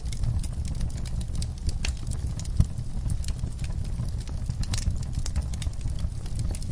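Crackling fire: irregular snaps and pops over a steady low rumble, with one sharper pop about two and a half seconds in.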